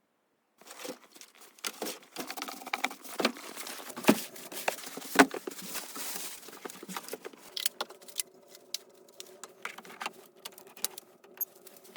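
Irregular small clicks, taps and knocks with light rustling, the sounds of someone working with their hands. A faint steady hum sits under them in the second half.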